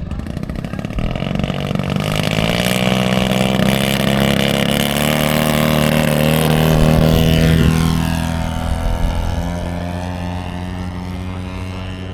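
Radio-controlled model airplane's engine making a fly-by pass. It grows louder, is loudest about two-thirds of the way through, then drops in pitch as the plane passes and flies away.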